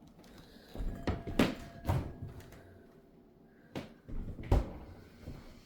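Cupboard doors being opened and shut in a small room: a handful of separate knocks and thuds, the loudest about four and a half seconds in.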